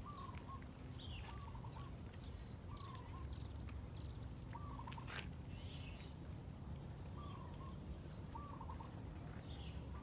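A bird calling over and over, about every second or two: each call is a short sliding note or a quick stuttering run of notes. A higher chirp sounds once near the middle, over a steady low rumble.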